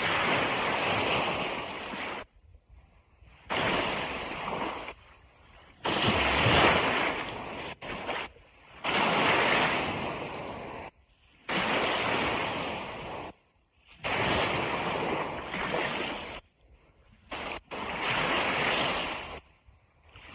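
Ocean surf washing on a beach: about seven surges of rushing water, each a couple of seconds long and each cutting off abruptly into near quiet before the next one.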